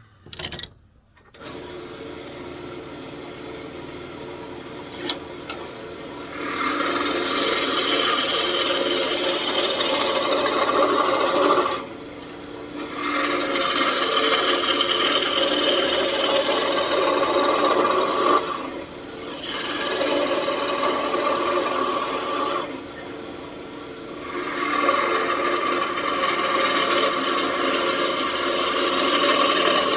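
Wood lathe motor starting up and running steadily, then from about six seconds in a turning tool cuts the spinning walnut blank in long, rough passes, lifting off the wood briefly three times.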